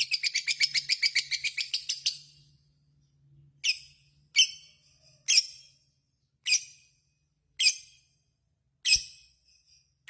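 Lovebird's rapid chattering trill (ngekek), about ten notes a second, which stops a little after two seconds in; then six single sharp chirps, about a second apart.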